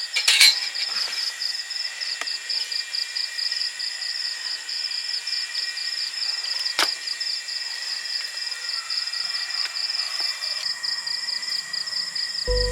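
Insects chirping in a fast, steady pulse, with a few continuous high tones under it. A loud sharp click comes just after the start and another about halfway through.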